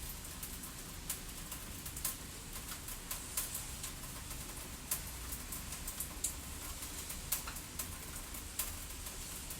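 Wood fire crackling, with irregular sharp pops and snaps a few times a second over a low steady rumble.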